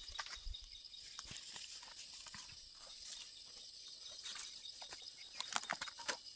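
Faint outdoor background with a steady thin high-pitched hum, scattered small clicks and rustles, and a few sharper clicks about five and a half seconds in; the chainsaw is not running.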